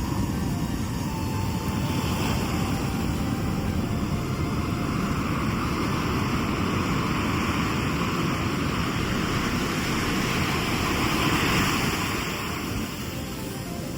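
Sea waves breaking and washing up the shore over a constant low rumble: the surf swells from about four seconds in, peaks, then falls away near the end.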